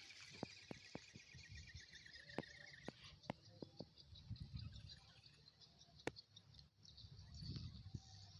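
Faint outdoor ambience: high-pitched chirping in quick repeated pulses, with a few scattered sharp clicks.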